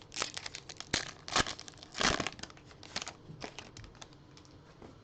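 A trading-card pack's wrapper crinkling and tearing as it is opened: a dense run of crackles and rips over the first three seconds, loudest about two seconds in, then a few scattered crackles.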